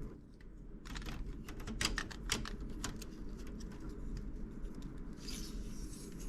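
Small plastic building-block pieces clicking and clattering as they are handled and fitted together, a quick irregular run of ticks, followed near the end by a brief rustle.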